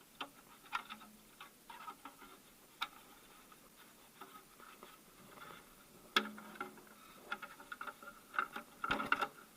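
Plastic timing-belt cover being fitted to the engine: scattered light clicks and knocks of plastic against metal, with a sharper knock about six seconds in and a quick run of clicks near the end as it is pressed into place.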